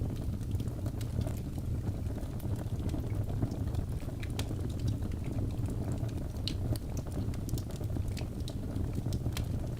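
Birch logs burning in a fireplace: a steady low rumble from the flames with frequent small, irregular crackles and pops.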